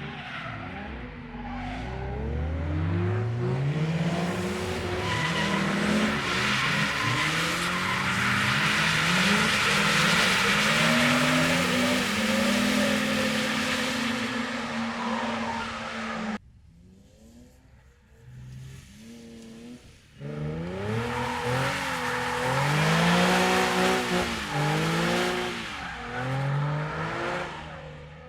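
Drift cars sliding on track: engines revving up and down hard under heavy throttle, with long tyre squeal. The sound cuts off abruptly partway through, then after a few quieter seconds another run of revving engine and screeching tyres follows.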